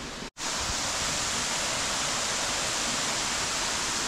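Waterfall rushing: a steady, even rush of falling water. It cuts out for a moment near the start, then comes back louder.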